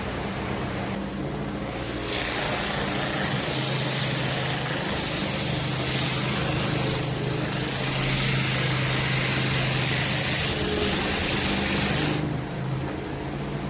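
An electric power tool's motor runs with a steady hum. About two seconds in, a loud harsh hiss of an abrasive grinding against a workpiece starts. It eases briefly midway and cuts off suddenly about a second before the end, leaving the motor running.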